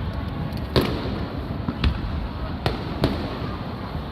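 Aerial fireworks bursting: four sharp bangs at uneven intervals, the last two close together, over a steady wash of background noise.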